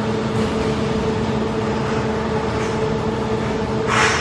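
Machinery running with a steady hum and rumble, holding a constant tone, with a short burst of hiss near the end.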